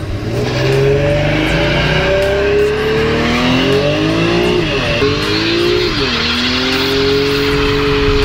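Cadillac doing a burnout: the engine is held at high revs, its pitch climbing, dropping sharply twice, then holding steady, while the rear tires squeal as they spin on the pavement.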